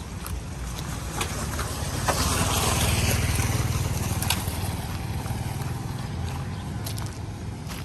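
Radio-controlled construction truck running, a steady low motor and gear hum with scattered clicks, growing louder with a rush of hiss for a couple of seconds from about two seconds in.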